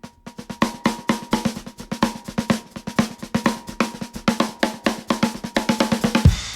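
Drum kit playing solo as a song intro: a fast, even snare drum pattern of about eight strokes a second, ending near the end in a loud bass drum hit as the band comes in.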